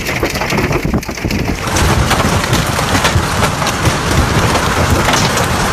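Hail and rain pelting down hard, a dense hiss full of sharp impacts that grows louder about two seconds in.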